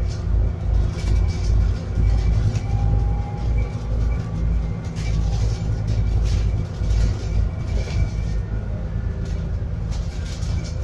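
Scania N280UD bus running on its biogas engine, heard from inside the bus: a steady, low pulsing rumble with engine tones over it.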